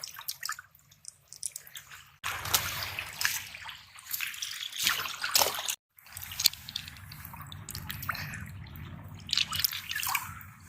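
Seawater dripping and trickling among shoreline rocks, with scattered small clicks and taps.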